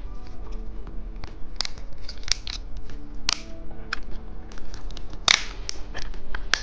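Crisp crackling, snipping and tearing of a plastic candy wrapper being opened, in irregular sharp bursts, with soft music in the background.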